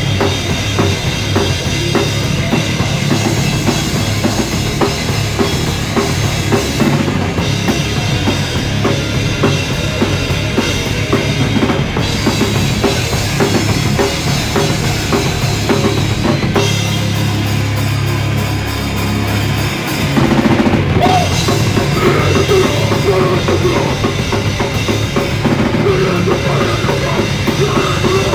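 A live rock band playing loud with a pounding drum kit, bass and guitar, recorded on a phone. About sixteen seconds in the drums thin out under a held low note for about three seconds, then the full band comes back in.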